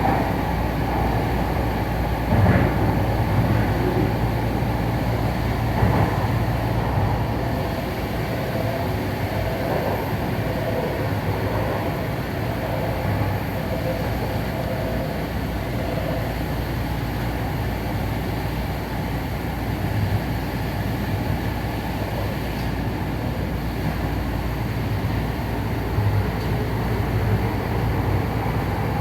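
Tokyu Den-en-toshi Line commuter train running, a steady rumble of wheels on rail with a low hum, heard from the front car, with a couple of short knocks in the first few seconds.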